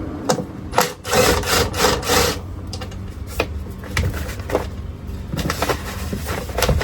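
Hand work on a truck door: a run of clicks and knocks, with a longer scraping rub about a second in, over a steady low hum.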